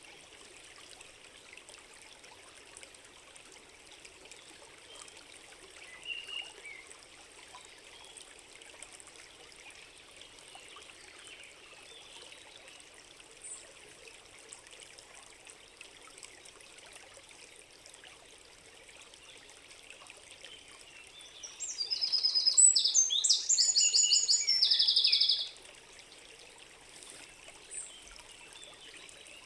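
Forest stream running steadily, with a few faint bird chirps and, near the end, one loud songbird phrase of rapid repeated high notes lasting about four seconds.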